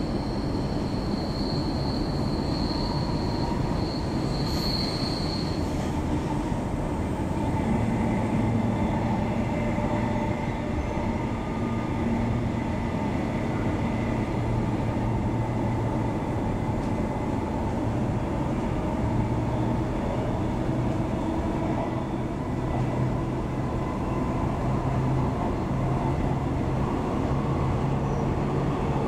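Queensland Rail electric suburban train running along the track, heard from inside the carriage: a steady rumble of wheels on rail. A high, thin squeal runs through the first five seconds or so and then stops, and a low steady hum comes through later on.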